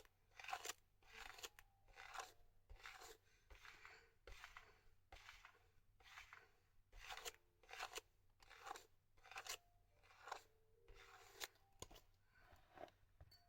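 Faint rhythmic scraping strokes, about two a second, of a brush being drawn through thick, dry hair.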